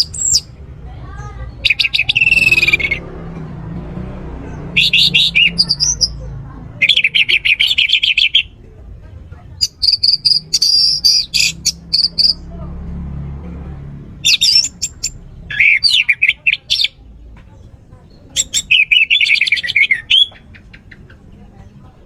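Orange-headed thrush (anis merah) singing: about eight varied, rapid phrases of one to two seconds each, separated by short pauses, over a faint low hum.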